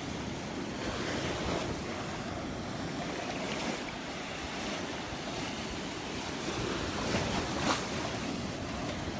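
Gulf surf washing onto the beach, a steady rushing wash with wind buffeting the microphone. A brief sharp tap sounds about three-quarters of the way through.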